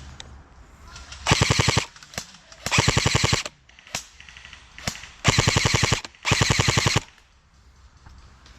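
Airsoft electric rifle firing on full auto in four short bursts, each a rapid, even rattle of shots, with a few single clicks in between.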